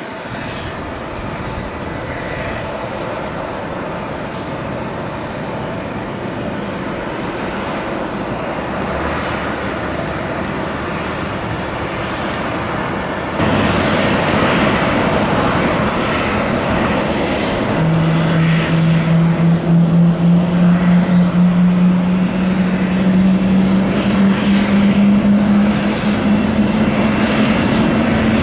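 Boeing 767 freighter's jet engines running at taxi power. The noise jumps louder about halfway through, and a few seconds later a low engine hum comes in and slowly rises in pitch.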